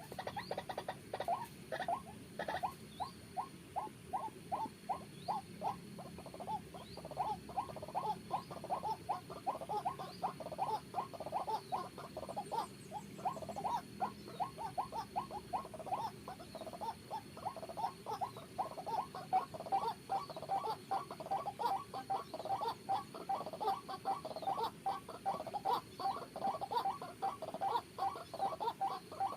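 White-breasted waterhen (ruak-ruak) calling, one short low note repeated over and over, about three times a second.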